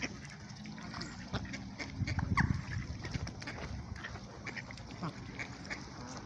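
Ducks feeding, with many short clicks and low, rough calls that are loudest about two seconds in, and one brief falling call.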